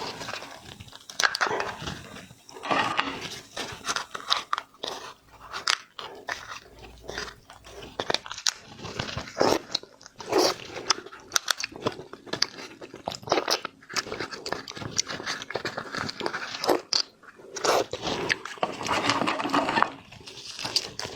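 Close-miked eating of shellfish: wet chewing with frequent irregular sharp crunches and crackles.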